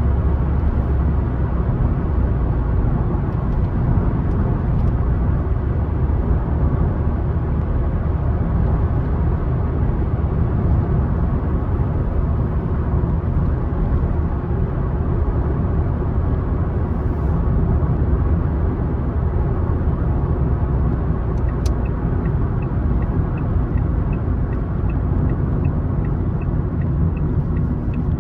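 Car driving along a road: a steady low rumble of tyres and engine. About three-quarters of the way through there is a click, then an even ticking about twice a second, like a turn-signal indicator.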